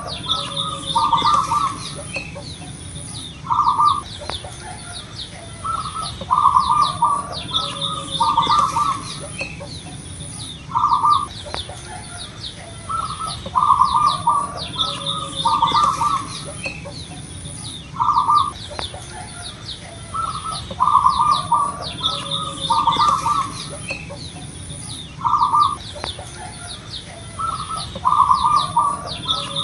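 Zebra dove (perkutut) singing: rolling, trilled cooing phrases repeated every couple of seconds, with quick faint chirps and a high pulsing whine behind them.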